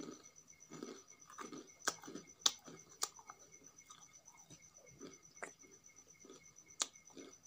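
Close-miked wet chewing and lip-smacking of rice and chutney, with irregular soft smacks and a few sharp mouth clicks, the sharpest a couple of seconds in and near the end. Fingers squish rice against a steel plate between mouthfuls.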